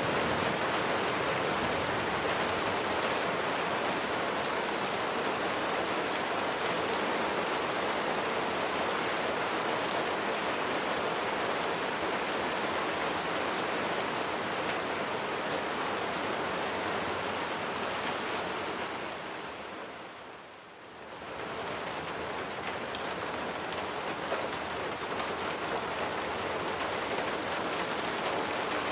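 Steady rain falling, a dense hiss with many individual drops ticking. About two-thirds of the way through it fades down briefly and comes back up.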